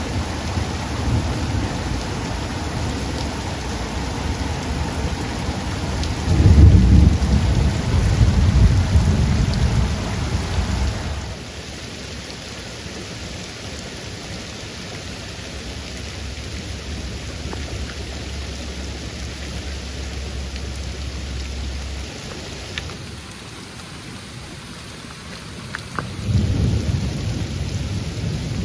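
Heavy, steady rain hissing down, with rolls of thunder: a long low rumble starting about six seconds in and lasting several seconds, and another starting near the end.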